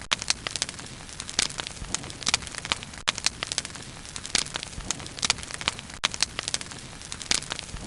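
Wood bonfire crackling, with irregular sharp pops, several a second and some louder than others, over a steady low hiss of burning.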